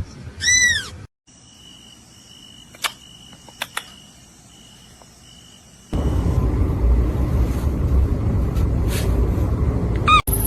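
A kitten meows once at the start, one arched call. A few seconds of faint clicks follow, then about six seconds in a loud, low rumbling noise sets in and runs on, with a short high meow near the end.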